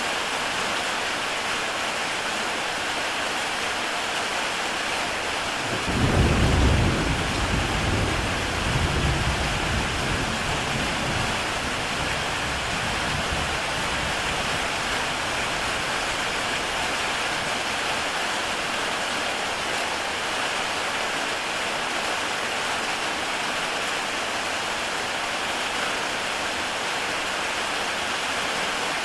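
Heavy rain falling steadily on a tile roof, with a low rumble of thunder breaking in about six seconds in, swelling again a few seconds later and dying away.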